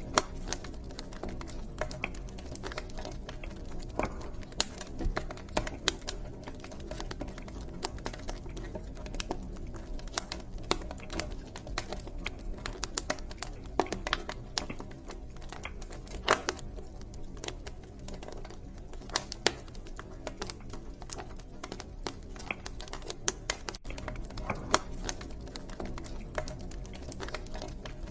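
Wood burning in a fireplace: irregular sharp crackles and pops, several a second, over a steady low rumble of the flames.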